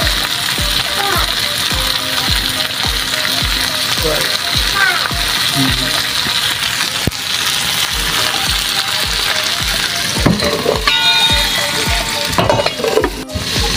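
Prawns sizzling and frying in an open pan, with a steady hiss, over a steady low beat. Near the end a metal lid rings briefly and clatters as it goes onto the pan.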